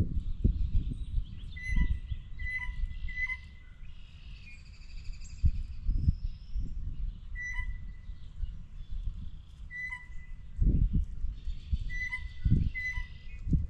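Birds calling with short, clear high notes repeated again and again, and chattering calls between them. Low thumps and rumble close to the microphone are the loudest sounds, most of them near the start and again in the second half.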